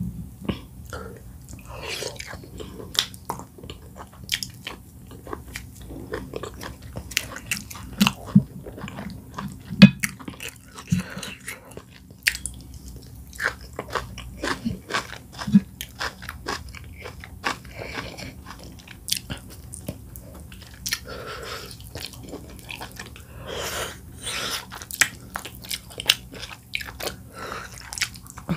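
Close-miked chewing and eating by hand: oat fufu with bitterleaf soup, with many short sharp mouth clicks throughout.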